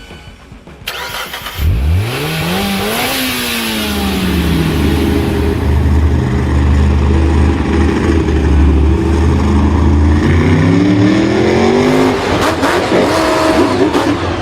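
A vehicle engine revving: it comes in suddenly, climbs in pitch, drops back to a steady low drone, and revs up again near the end.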